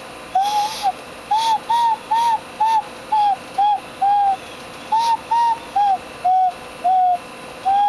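Handmade bird whistle blown in a string of about fourteen short hooting notes, roughly two a second, each rising and falling slightly in pitch.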